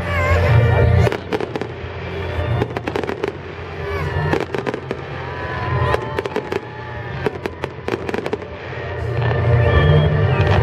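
Fireworks going off: many sharp bangs and crackles in quick, irregular succession, with music playing underneath.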